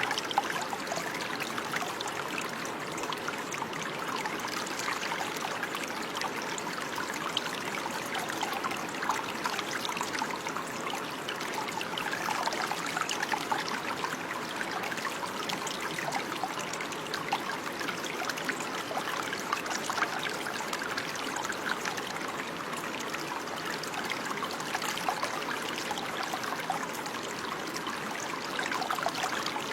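Running water of a small stream, trickling and babbling steadily, with fine splashing detail.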